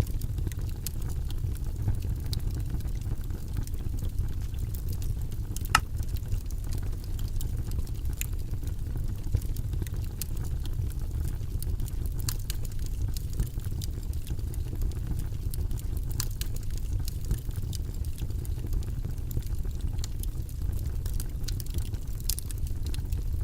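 Steady, deep white-noise track, its sound mostly in the low range, with scattered faint clicks and a sharper tick about six seconds in.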